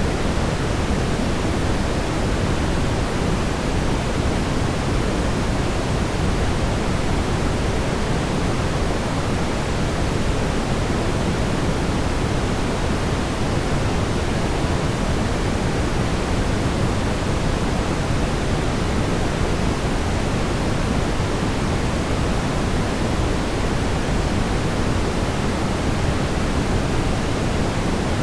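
Synthetic brown noise: a steady, even rumble-like hiss weighted toward the low end, unchanging throughout.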